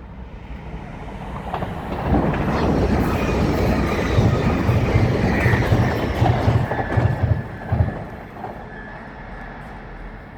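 A train running past on the rails, growing loud over about two seconds, with a regular clack of wheels over the rail joints and a thin wheel squeal, then fading.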